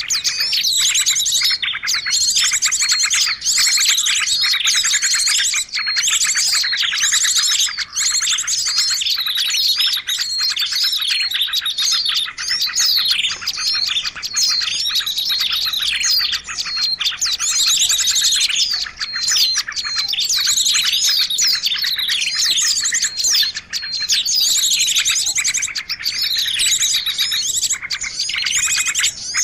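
A dense chorus of many small songbirds chirping and trilling at once, overlapping without a break: a mixed small-bird lure call used to draw birds in.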